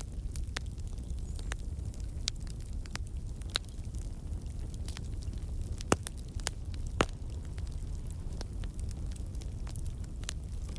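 Wood campfire burning: a steady low rumble of flames with irregular sharp crackles and pops from the logs, the two loudest pops about six and seven seconds in.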